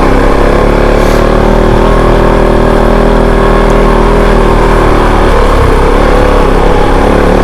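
Off-road motorcycle engine running under way at a steady pitch, the note changing a little past five seconds in.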